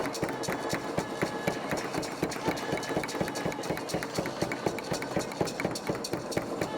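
Rapid, continuous clattering of small sharp clicks and knocks, roughly ten a second, over a faint steady tone.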